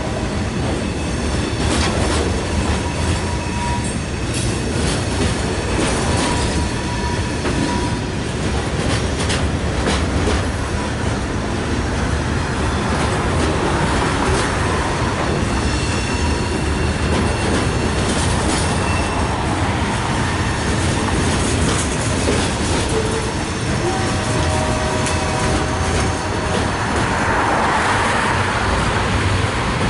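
Train passing over the railroad crossing: a loud, steady rumble of cars rolling by, with the wheels clicking over the rail joints. The locomotive's horn sounds briefly near the end.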